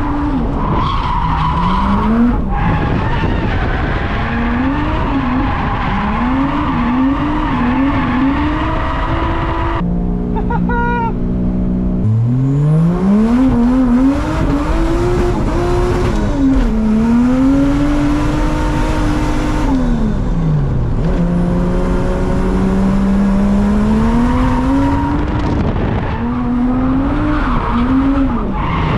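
A drift car's engine revving up and down over and over through slides, with tyres squealing and skidding.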